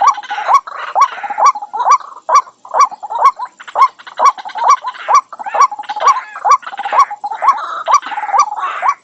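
White-breasted waterhen calling: a short, sharp note repeated about twice a second, with harsher croaking calls filling the gaps.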